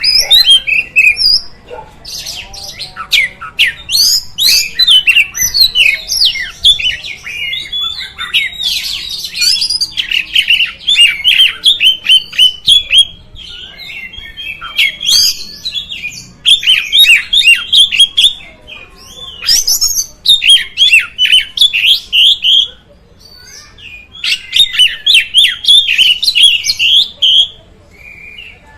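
Oriental magpie-robin (kacer) singing: rapid runs of varied chirping and whistled notes in phrases of several seconds, broken by short pauses and one longer lull about two-thirds of the way through.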